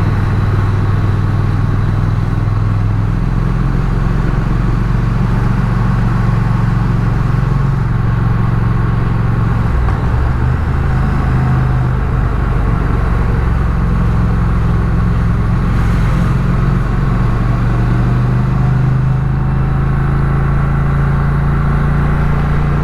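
Triumph Speed Twin's parallel-twin engine running under way with wind and road noise. The engine note shifts about ten seconds in and again near the end as the revs change.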